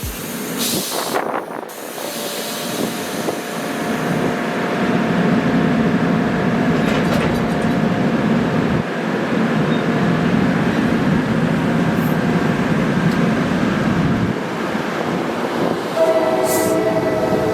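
NJ Transit commuter train running along the track, its steady rumble and rail noise building and then holding. About three-quarters of the way through, the train's horn sounds a held chord.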